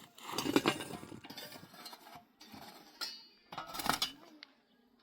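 Scattered light clinks and knocks of hard objects being handled, with a short pitched sound about three and a half seconds in.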